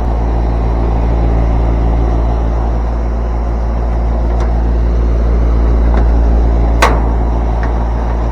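Steady electrical-motor hum with a strong low drone, typical of an outdoor air-conditioning condensing unit running, its fan on while the compressor is suspected of not running. A sharp click sounds about seven seconds in.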